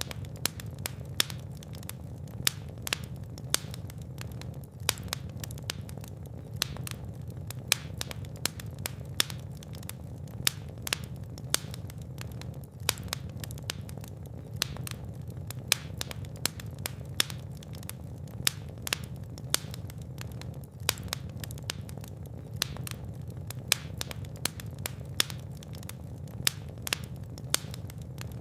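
Fire burning in a fireplace: a steady low rumble of flames with sharp crackles and pops, several a second at irregular intervals.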